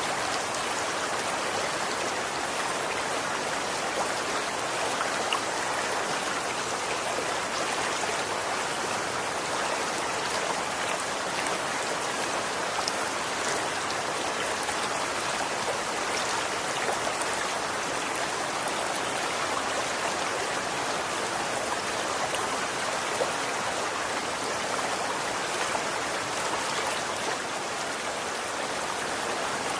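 Running water: a steady, even rush flecked with small splashes and drips, with no change in level.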